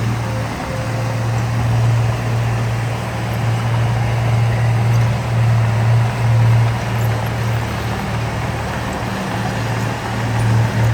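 Heavy diesel engine of construction machinery running with a steady low drone that swells and eases slightly in loudness.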